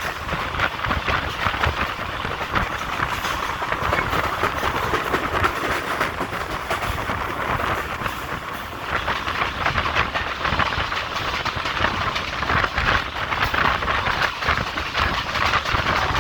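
Passenger train running along the track: a steady rumble of coach wheels on the rails, with rattling clatter over the rail joints.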